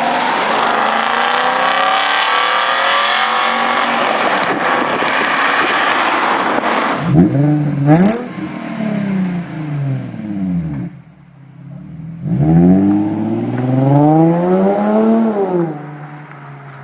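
Performance car engine and exhaust, first pulling hard under acceleration, then revved several times at a standstill, the pitch climbing and falling with each rev before settling back to idle near the end.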